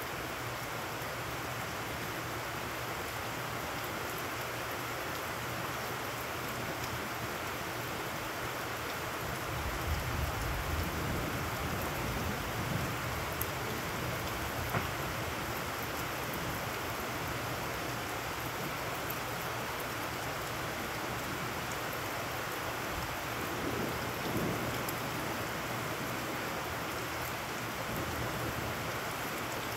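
Heavy rain falling steadily on waterlogged ground and puddles, a constant hiss. Low rumbles of distant thunder swell up about ten seconds in and again near the end.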